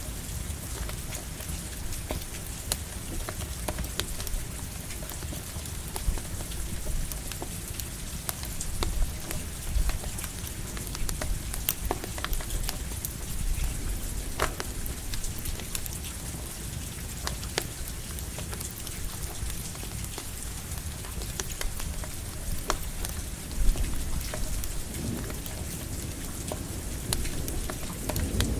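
Steady rain with scattered sharp crackles from a campfire, over a constant low rumble. A roll of thunder begins to build near the end.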